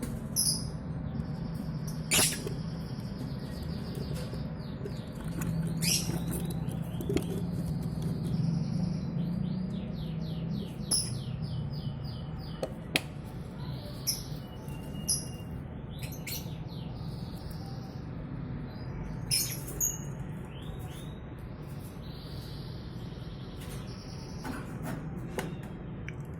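Lovebirds chirping and chattering in quick high-pitched runs, with scattered sharp clicks and scratches, over a steady low hum.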